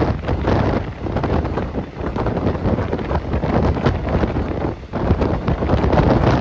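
Wind buffeting a phone microphone on a moving passenger train, gusting up and down, with the train's running noise underneath.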